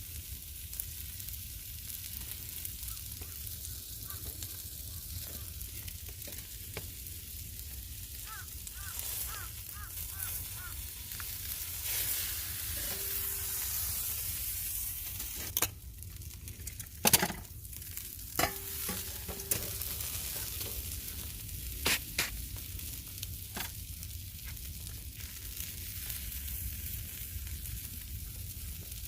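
Food sizzling steadily as it cooks over high heat, with a few sharp clicks and knocks from about halfway through.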